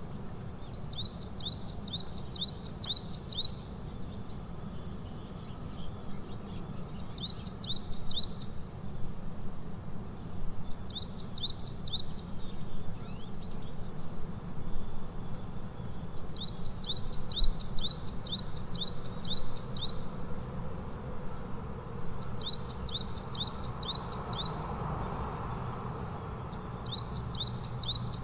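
A bird singing repeated phrases of short, sharp, high chirps, about three notes a second and six to nine notes per phrase, a phrase every four to six seconds. A steady low rumble of background noise lies under it.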